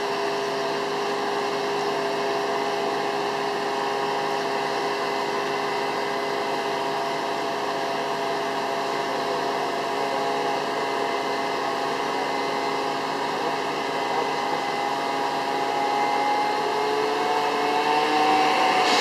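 Heavy rotator recovery truck's engine and hydraulic winch system running steadily under load, a drone of several held tones. Near the end it gets louder and some of the tones rise in pitch.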